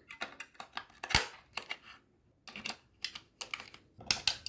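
Light plastic clicks and knocks from handling a small RC drift truck, irregular, with one sharper knock about a second in and a cluster of clicks near the end; no motor is heard running.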